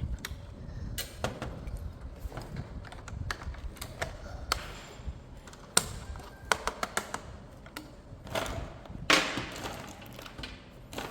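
Hands handling plastic toy parts and packaging: irregular sharp clicks and taps, with a few short rustles partway through and near the end.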